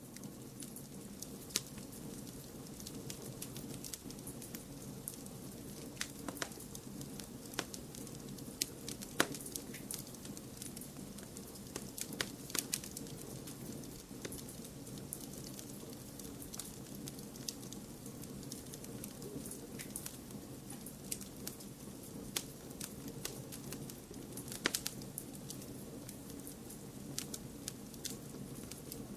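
Wood fire crackling, with sharp pops at irregular moments over a steady low noise bed of added white noise.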